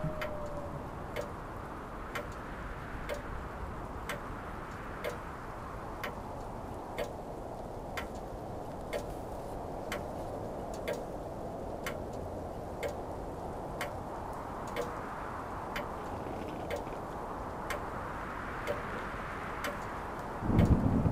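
Clock ticking steadily and evenly over a low, steady hiss. Near the end there is a loud, low thud.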